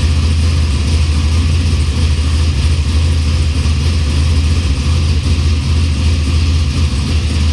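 632 cubic-inch big-block Chevrolet V8 running steadily at a constant speed on newly fitted Holley Sniper EFI throttle-body fuel injection, during its first start-up on the new system.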